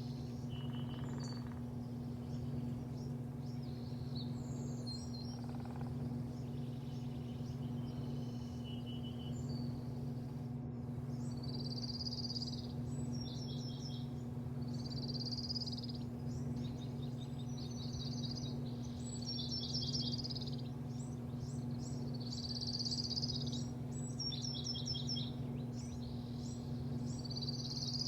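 Birds chirping and calling over a steady low hum, the calls sparse at first and coming thick and fast from about halfway through.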